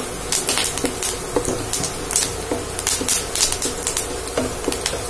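Sliced onion, garlic and curry leaves sizzling in ghee in a non-stick frying pan, with a wooden spatula stirring and scraping the pan in quick, irregular strokes. This is the stage where the onion is being fried until it browns.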